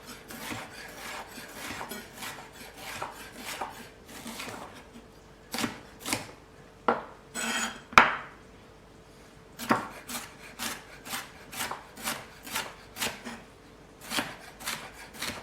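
Kitchen knife coarse-chopping red capsicum on a chopping board: a run of uneven taps, with a few louder knocks in the middle.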